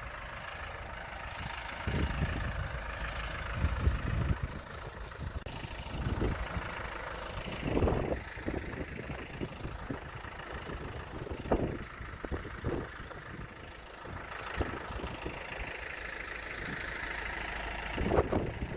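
Snow plow trucks' engines idling steadily, with gusts of wind rumbling on the microphone.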